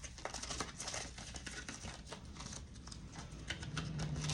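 Paper money and envelopes being handled: light, quick rustles and small clicks of bills being counted and shuffled. A low steady hum comes in near the end.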